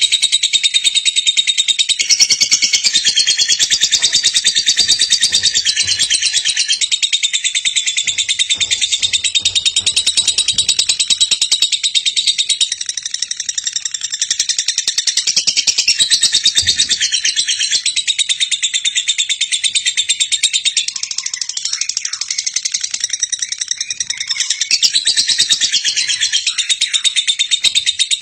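Female lovebird chattering in a continuous, high-pitched stream of very rapid notes, easing slightly twice before picking up again.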